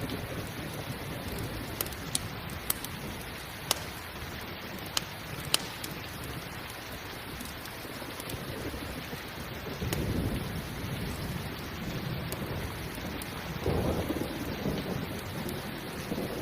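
Steady rain, with two low rolls of thunder, at about ten and fourteen seconds in. A few sharp crackles from a campfire come in the first six seconds.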